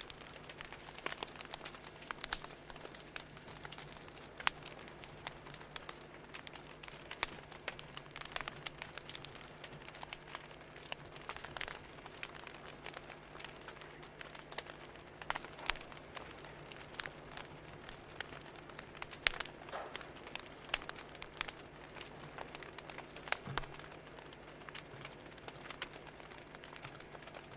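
Wood fire crackling, with irregular sharp pops and snaps of varying strength over a faint steady low hum.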